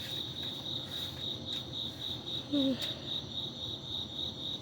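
Cricket chirping steadily in the background, a high pulsed trill repeating several times a second. There is a brief falling hum of a voice just past halfway.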